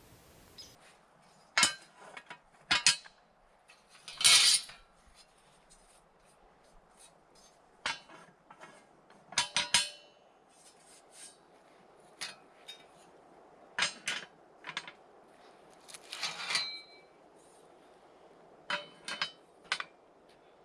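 Irregular clinks and clanks of metal cookware and utensils being handled, about a dozen knocks spread out, some ringing briefly.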